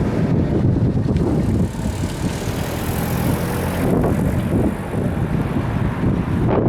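Wind buffeting the microphone, a gusty low rumble with a faint steady hum beneath it.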